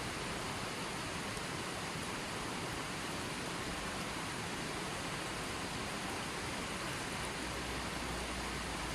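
Running water flowing steadily: an even, unbroken rushing sound.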